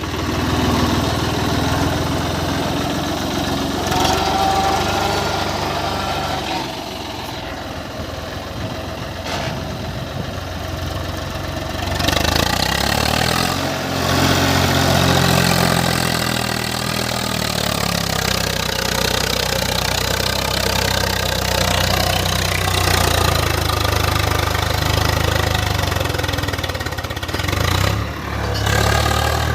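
Swaraj 855 FE tractor's three-cylinder diesel engine running steadily under load while pulling a seven-tine chisel plough, getting somewhat louder about twelve seconds in.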